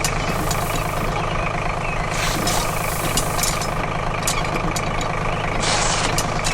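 Heavy diesel-type engine idling steadily with a knocking, truck-like sound, with two short hissing bursts about two seconds and about five and a half seconds in.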